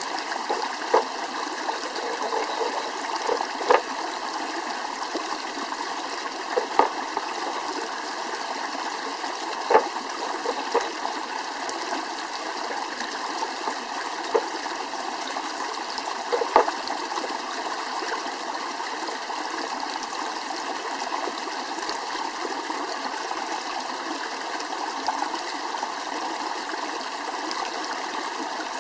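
Steady rush of a flowing stream, with a few sharp pops or clicks scattered through the first half.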